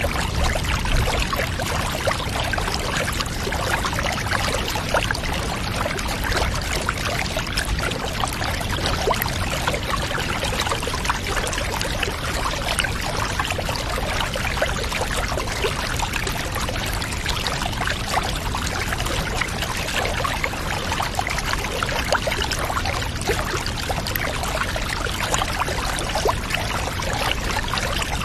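Water running steadily into a bathtub, a continuous pouring splash with a fine crackle and no pauses.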